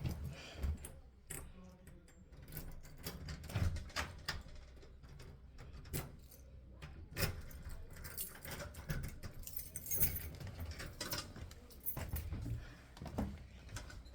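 A bunch of keys jangling, with scattered clicks and knocks throughout.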